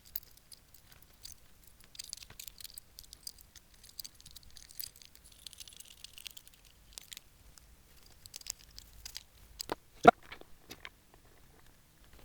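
Small clicks, light rattles and scraping as an electric guitar's jack socket and parts are handled and put back together, with one sharper knock about ten seconds in.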